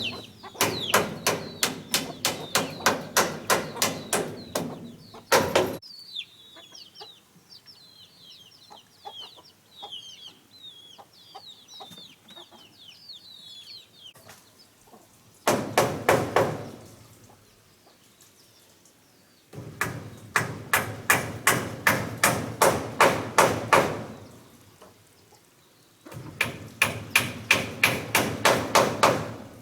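Runs of rapid, evenly spaced knocks, about three to four a second and lasting several seconds each, come and go. In the quieter stretch between the first two runs, chicks peep in short high chirps.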